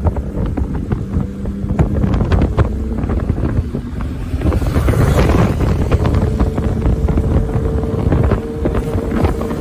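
Kawasaki ZX-6R inline-four engine running while riding, under heavy wind buffeting on the microphone; the engine note settles at a higher steady pitch about six seconds in.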